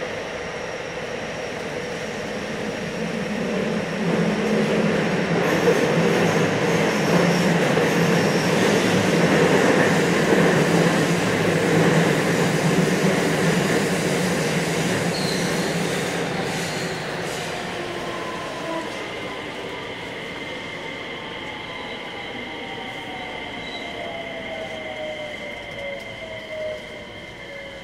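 JR West 321 series electric train running at speed, its wheel and motor noise swelling and then easing off. From about two-thirds of the way through, the whine of its Hitachi IGBT inverter glides down in pitch as the train slows under braking.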